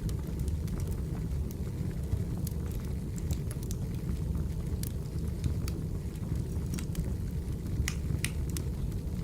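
Wood fire burning: a steady low rumble of flames with frequent sharp crackles and pops from the burning firewood.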